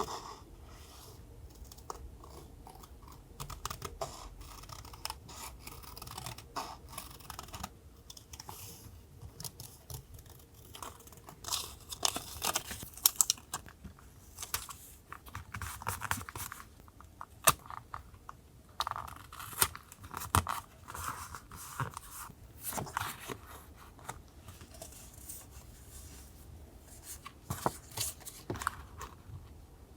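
Close-up handling of paper and stickers for a journal collage: irregular rustles, rubs and small taps and clicks, busiest in the middle stretch.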